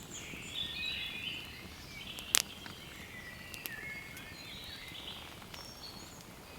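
Birds singing in the evening, several overlapping songs and chirps. A single sharp crack cuts through a little over two seconds in.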